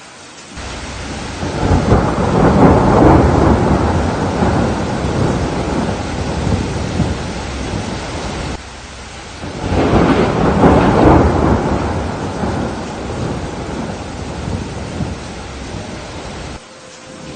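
Thunderstorm: steady rain with two long rolls of thunder, the first swelling about half a second in and the second about nine seconds in, each fading out slowly and then cutting off abruptly.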